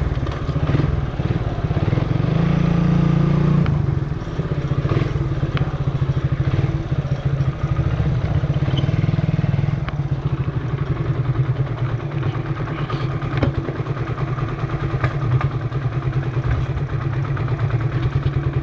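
Motorcycle engine running while riding in traffic, a fast pulsing exhaust note that eases off about four seconds in.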